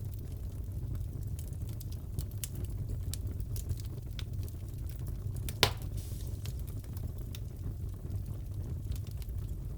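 Wood fire crackling in a fireplace: a steady low rumble of burning with scattered small crackles, and one loud pop about five and a half seconds in.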